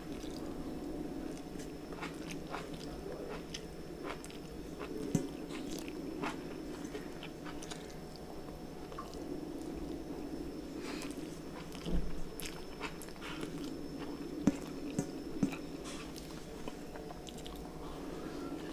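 Close-miked chewing and mouth sounds of a man eating rice and fried pointed gourd with his fingers: soft wet clicks and smacks, with a few sharper smacks, over a steady background hum.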